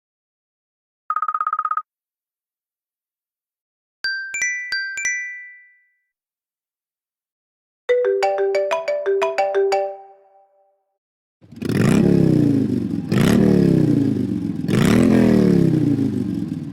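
iPhone ringtones and alert tones played one after another: a short buzzy tone, a few bright chimes, a short melodic phrase, and then a loud tone that swoops down and up in pitch about three times, like a revving engine.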